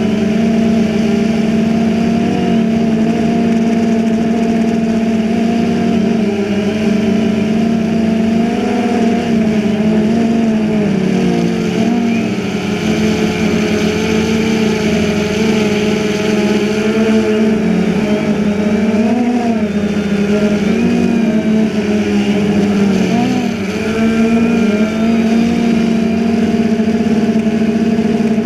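DJI Phantom 2 quadcopter's propellers and motors humming steadily in flight, the pitch wavering briefly up and down as the drone manoeuvres.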